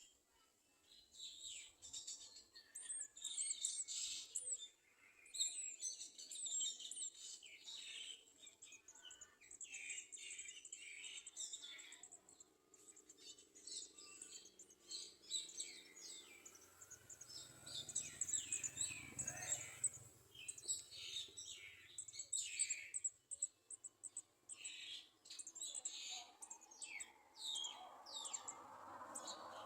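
Small birds chirping: many quick, high-pitched calls in a steady stream, with a soft rushing noise near the end.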